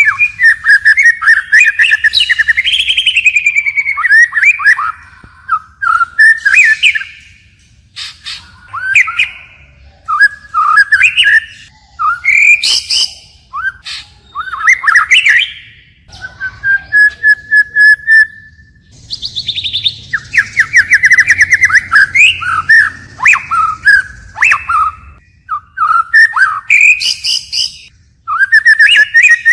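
White-rumped shama singing, switching tune from one phrase to the next: loud varied whistles broken by short pauses, with a long steady whistle past the middle and a fast run of notes just after it.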